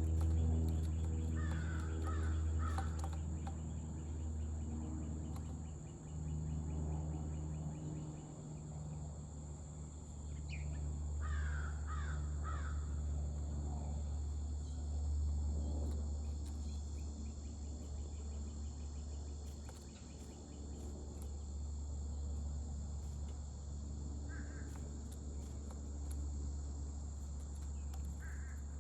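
Harsh bird caws in short runs of three or four, near the start and around the middle, with single calls twice near the end. Under them run a steady high insect drone and a constant low hum.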